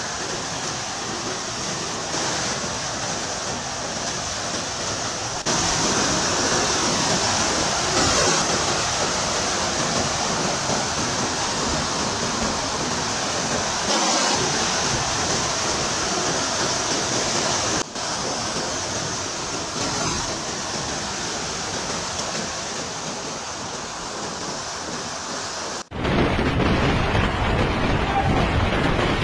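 Steady rushing noise of a storm, like wind and pouring water, with sudden changes about 5, 18 and 26 seconds in where one clip cuts to the next.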